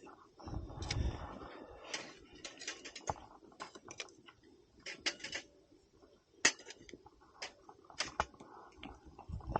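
Scattered light clicks and taps of eating utensils and tableware being handled during a meal, a dozen or so at irregular intervals.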